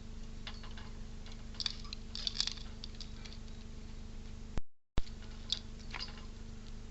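Scattered light clicks and taps from an animal feeding at a bird feeder, in two short flurries, over a steady low hum. A little past halfway the sound cuts out for a moment, with a sharp click on either side.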